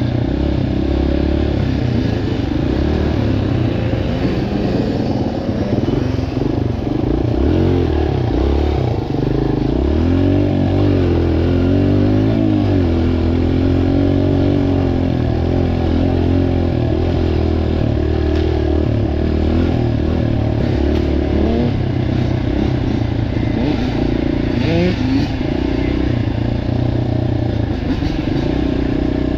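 Dirt bike engine running while ridden, its revs rising and falling continuously with throttle changes.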